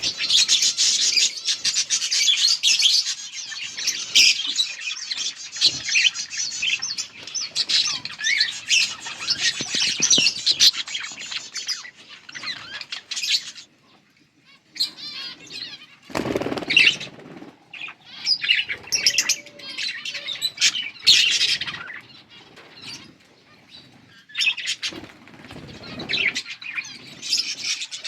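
Yellow budgerigars chirping in dense, overlapping chatter for the first dozen seconds, then in shorter spells after a brief lull, with a short rustle a little past the middle.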